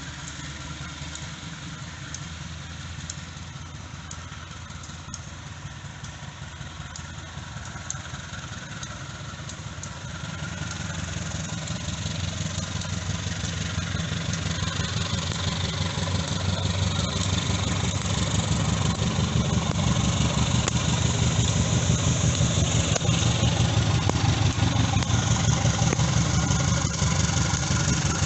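Diesel locomotive engine running with a low, steady throb, growing louder over about ten seconds as the train draws near, then staying loud.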